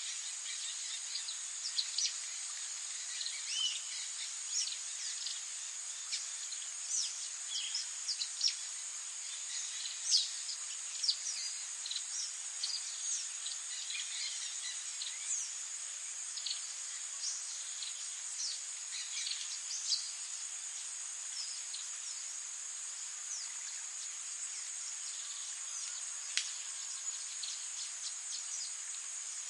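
Wild songbirds chirping in many short, high, quick calls over a steady, very high insect trill. The chirping is busy for most of the stretch and thins out near the end, leaving mostly the insect trill.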